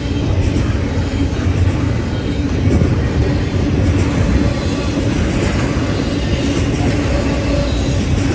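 Norfolk Southern freight train rolling past, a steady rumble of wheels on rail.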